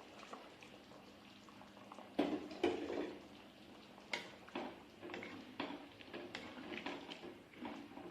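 Eating sounds: a spoon or fork clicking and scraping against a plate with mouth sounds, in irregular short knocks that get louder and closer together from about two seconds in.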